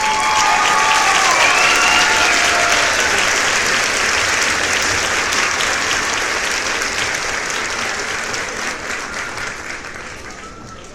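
Crowd applauding and cheering, with whoops over the first few seconds. The applause then slowly dies down.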